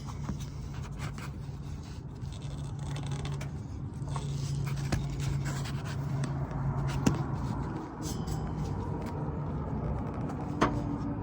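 Scraping, rubbing and small clicks of a camera being handled and fitted into a mount, over a steady low hum.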